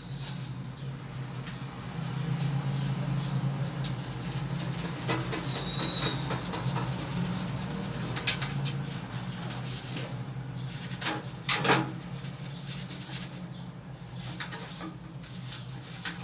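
A brush scrubbing a soaped window air conditioner: steady rubbing and rasping, broken by scattered sharp knocks, the loudest a pair about eleven and a half seconds in, over a steady low hum.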